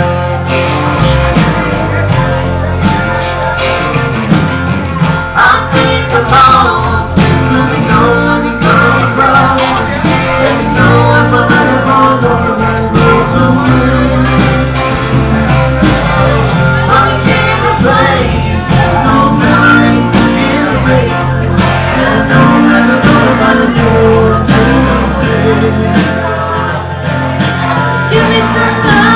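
A live band playing a blues song: guitars over bass and percussion, with a steady beat.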